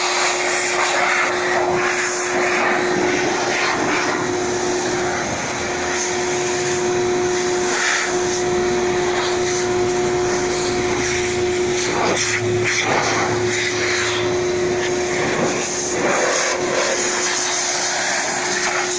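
Electric blower motor running steadily with a constant whine and rushing air, drying a freshly steam-washed motorcycle; the whine drops out briefly about five seconds in.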